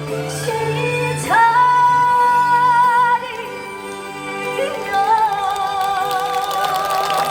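A woman singing over a backing track: her voice swoops up about a second in and holds one long, steady high note that breaks off about three seconds in, while the backing music carries on with sustained, wavering tones.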